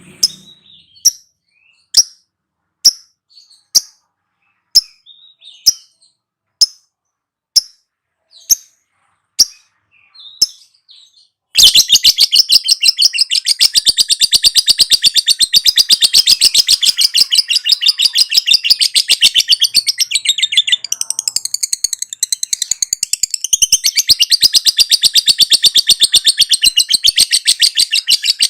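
Lovebird calling: sharp single chirps about once a second, then, about 11 seconds in, a long, unbroken, very fast chattering trill, the 'ngekek' that lovebird keepers prize.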